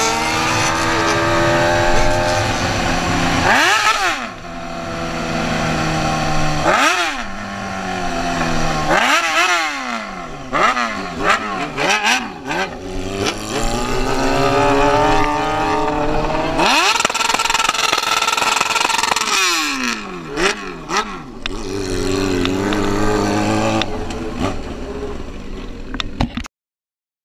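Motorcycle engines revving up and down over and over, more than one at times, with sudden drops in pitch between the rises. The sound cuts off abruptly near the end.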